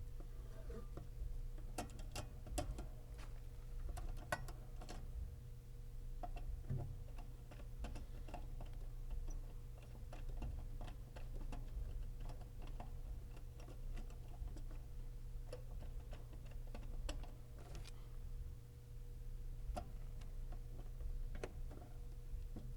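Irregular clicks and taps of hand work on wiring in a sheet-metal HVAC cabinet, over a steady low hum.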